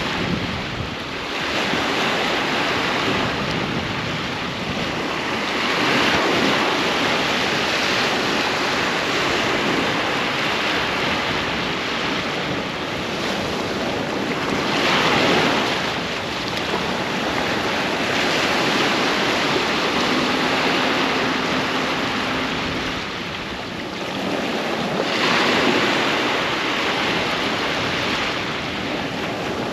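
Sea waves breaking and washing up on a beach in a continuous rush, swelling louder with each incoming wave roughly every nine or ten seconds.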